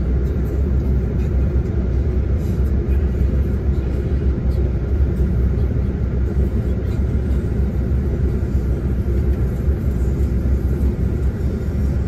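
Tour coach heard from inside the passenger cabin while under way: a steady, loud low rumble of engine and road noise with no change in pace.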